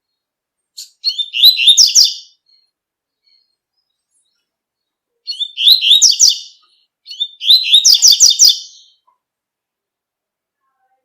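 Double-collared seedeater (coleiro) singing its 'tui-tui' song: three short phrases of quick, repeated high notes, the first about a second in and two more close together after about five seconds.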